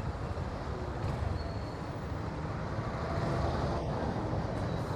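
Motorcycle running at riding speed, a steady engine and road-wind noise on the rider's camera microphone.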